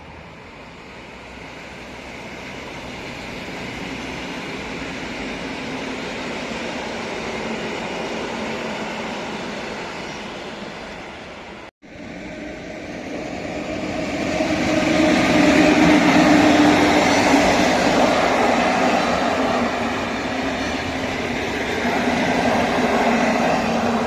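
A train passing on the rails, its rumble building steadily, cut off abruptly about halfway through. The sound of a passing train then resumes, louder, with a steady hum over the rumble that peaks a few seconds later and eases off a little.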